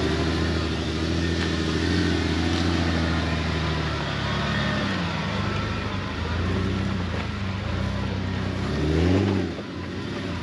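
Jeep TJ engine running under load on a soggy off-road trail, steady at first, then revving up and down several times, with the biggest rev near the end before it eases off.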